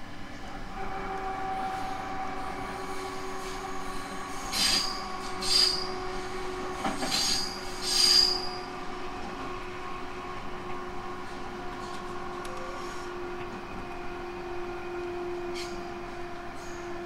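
Onboard running sound of a JR Central 311 series electric train: steady whining tones over rolling wheel noise, with four short high-pitched wheel squeals between about 4 and 8 seconds in.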